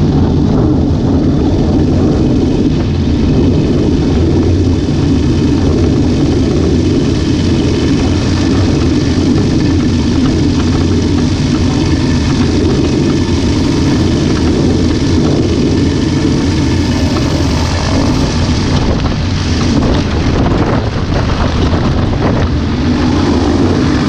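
Ultralight aircraft's engine and propeller running steadily, under a dense rush of wind noise, with a few faint knocks near the end.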